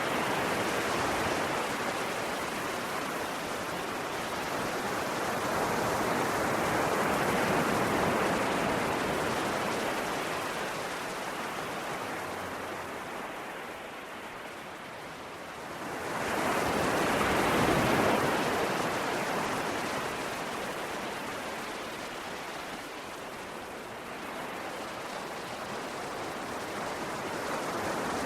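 Ocean waves breaking and washing on a shore: a steady rush of surf that swells and ebbs slowly, with one louder wave surging in about two thirds of the way through.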